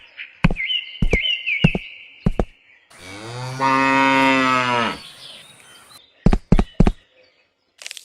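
A cow moos once, a single long call of about two seconds in the middle, with a series of sharp knocks before and after it.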